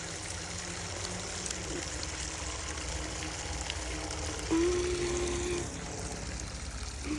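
Creek water running steadily. A brief steady humming tone stands out about four and a half seconds in and lasts about a second.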